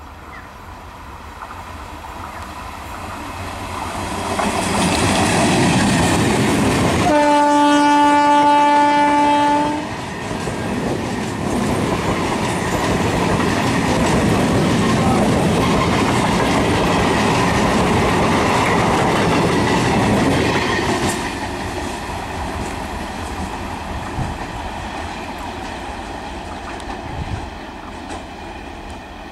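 Indian Railways suburban EMU electric local train approaching and sounding one long, steady horn blast of about three seconds, about seven seconds in. The train then runs past with a loud rumble and wheel clatter on the rails, which falls away after about twenty seconds.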